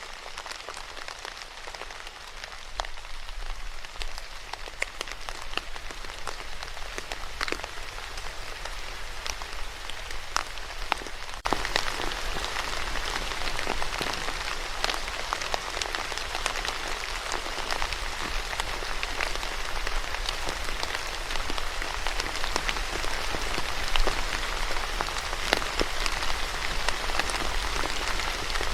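Steady rain falling, with many single drops ticking sharply on a surface. About eleven seconds in it turns suddenly louder and denser.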